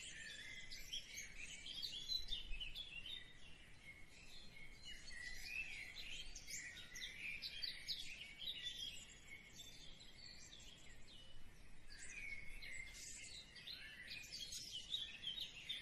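Faint birds chirping and twittering in the background, with many quick high chirps throughout.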